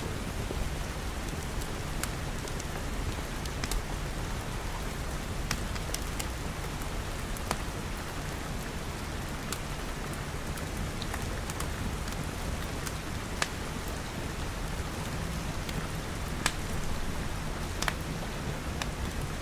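Steady rain falling on glass, with a low rumble beneath it and the sharp crackle of a wood fire every second or two.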